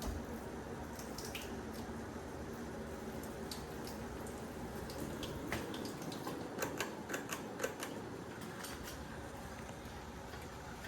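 Hunter Coastal Breeze ceiling fan running with a steady whir and hum, with a quick run of sharp clicks a little after halfway.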